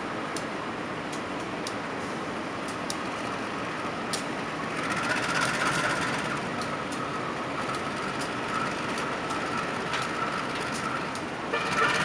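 Diesel-hauled passenger train rolling slowly past the platform, with a steady rumble and sharp clicks. A high steady whine joins about five seconds in, and it grows louder near the end.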